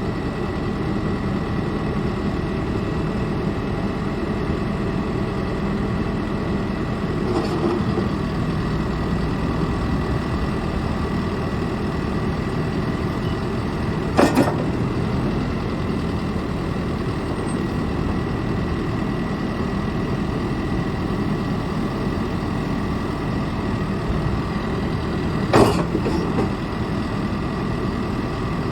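John Deere 410K backhoe loader's 4.5-litre diesel engine running steadily, with a thin steady whine above it. A few sharp knocks cut in, about 7, 14 and 26 seconds in.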